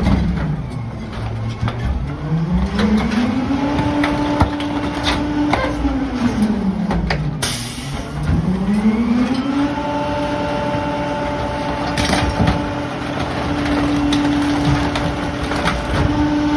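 Rear-loader garbage truck's engine revving up to a high steady speed to drive the packer, dropping back about 8 seconds in, then revving up again for a longer hold. Scattered knocks and cracks of debris being broken and compacted.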